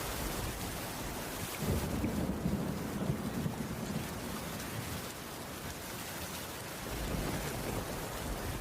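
Steady heavy rain falling, with a low rumble that swells about a second and a half in and fades out by about four seconds.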